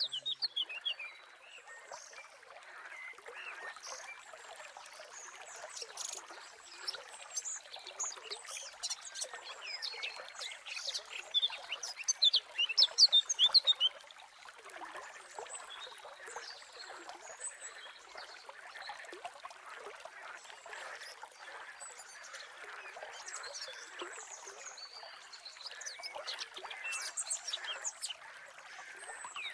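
A natural chorus of small birds chirping and calling, with many short high chirps overlapping. The calls are busiest and loudest a little under halfway through.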